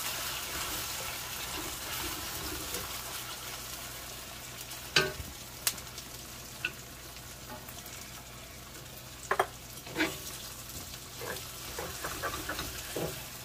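Sliced beef sizzling in hot oil in a wok as it is stir-fried with a wooden spatula, the sizzle gradually quietening. A few sharp knocks sound now and then, clustered around five and ten seconds in.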